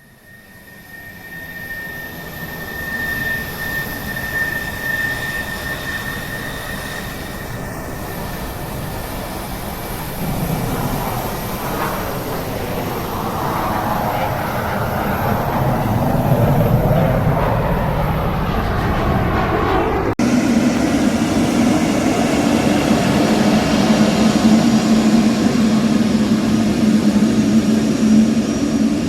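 Jet airliner engines running at an airport. A high whine is heard at first, then a rushing jet noise that grows steadily louder. A brief dropout comes about two-thirds through, followed by a steady low drone.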